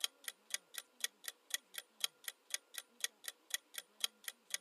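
Countdown-timer sound effect ticking steadily, about four sharp ticks a second.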